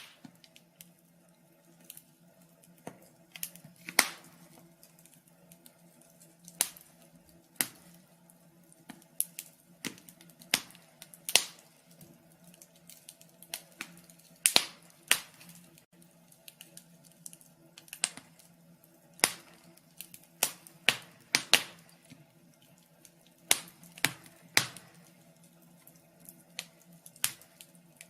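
Wood fire crackling, with irregular sharp pops and snaps, the loudest about four seconds in and around fourteen to fifteen seconds in. A faint steady hum runs underneath.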